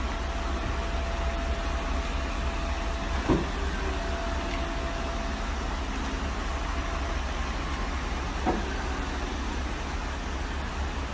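A vehicle engine running steadily with a low rumble and a thin steady whine, and two short thumps, one about a third of the way in and one about three quarters in.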